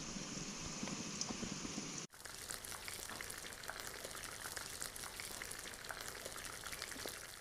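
Moong dal pakoras deep-frying in hot oil in a wok: a steady fizzing sizzle with many fine crackles. It drops out briefly about two seconds in.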